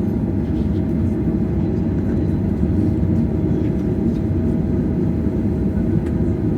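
Steady cabin rumble inside a Boeing 737-800 before takeoff, with a steady mid-pitched hum over it and a few faint clicks.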